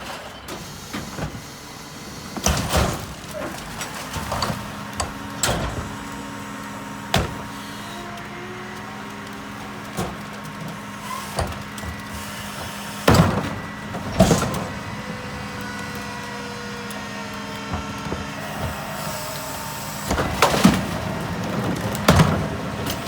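Mack MRU McNeilus rear-loader garbage truck running with a steady hum, over which come a series of sharp metallic clanks and bangs, the loudest about halfway through and a cluster near the end.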